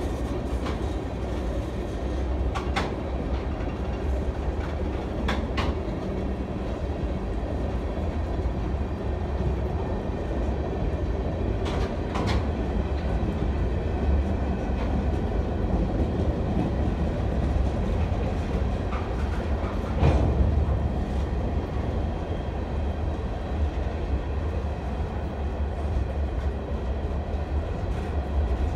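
Freight cars rolling past on steel wheels: a steady low rumble with a clickety-clack and a few sharp clanks, the loudest about two-thirds of the way through.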